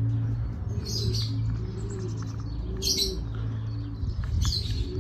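Racing pigeons cooing in their loft, low rising-and-falling coos again and again, with short high chirps about one, three and four and a half seconds in, over a steady low hum.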